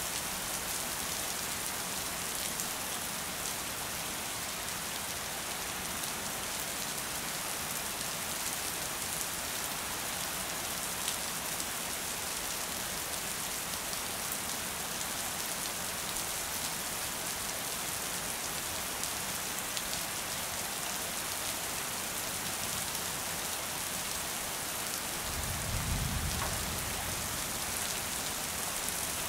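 Steady rain: an even, dense hiss with scattered faint drop ticks. A brief low rumble swells and fades near the end.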